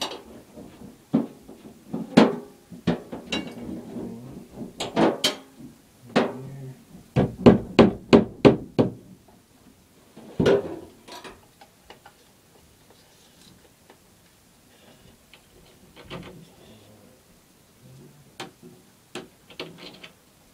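Blows struck against a drywall wall to open an access hole for plumbing repair: scattered knocks, then a quick run of about seven strikes around seven seconds in. The strikes become fewer and fainter in the second half.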